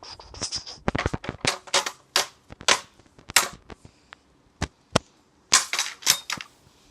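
A vacuum cleaner pole repeatedly whacking a cardboard box: a rapid, irregular run of sharp hits, a brief lull with a couple of single strikes in the middle, then a last quick flurry.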